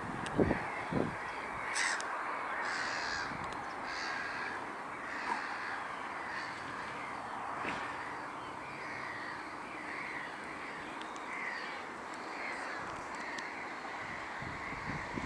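Many gulls calling over and over over a steady wind background, with a few brief wind thumps on the microphone about a second in.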